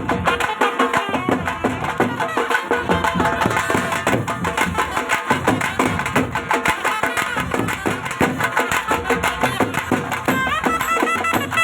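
Tamil folk music for a kummi dance: a melody over a brisk, steady percussion beat.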